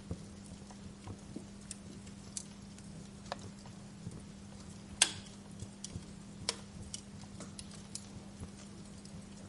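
Wood fire crackling in a fireplace: irregular sharp snaps and pops, one much louder pop about halfway through, over a steady low hum.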